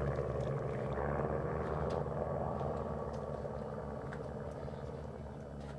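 Piston-engine propeller planes flying in formation, a steady drone that slowly fades.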